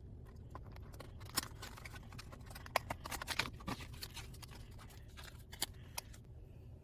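Car fragrance packaging being opened and handled: scattered sharp clicks and rustles, busiest about three to four seconds in, with a few single clicks later.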